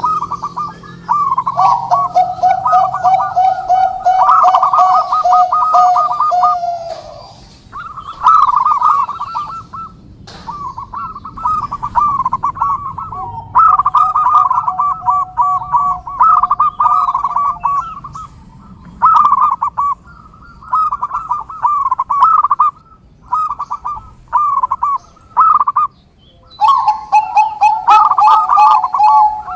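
Zebra doves (perkutut) cooing in repeated rapid, bubbling phrases of one to several seconds, separated by short pauses. In some phrases a lower, steadier coo runs beneath the higher notes.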